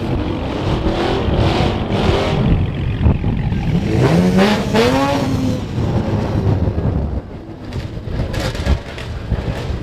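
Car engine revving over a steady engine rumble, its pitch climbing in a long rise about four seconds in.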